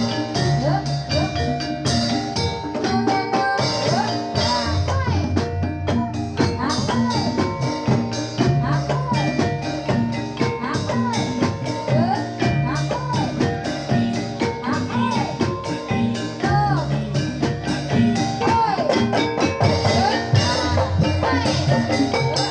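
Javanese gamelan accompaniment for a jathilan dance: metallophones and drums playing a steady, driving rhythmic pattern without a break.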